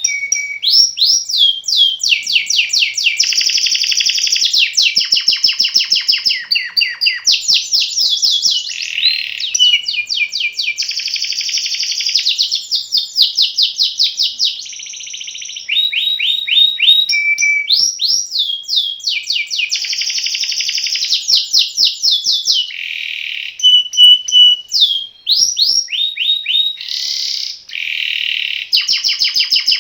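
Male canary singing a long, unbroken song of rapid rolling trills, fast repeated chirps and short whistled notes, changing phrase every second or two.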